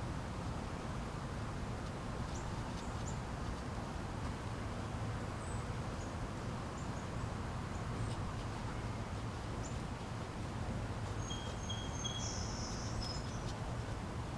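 Outdoor ambience: a steady low background hum with faint, scattered high bird chirps, including a short buzzy call about twelve seconds in.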